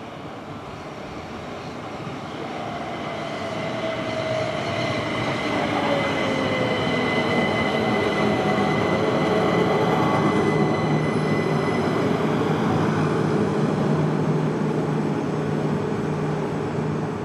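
Southeastern Bombardier Electrostar electric multiple-unit train running into the station, getting louder over the first six seconds as it approaches. Its motor whine falls in pitch as it slows, then a steady hum and wheel rumble hold as the train runs alongside the platform, with a thin high whine above.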